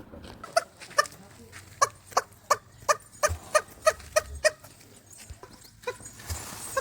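Domestic turkey giving a quick run of short clucking calls, about three a second, pausing briefly after about four and a half seconds and then calling again near the end.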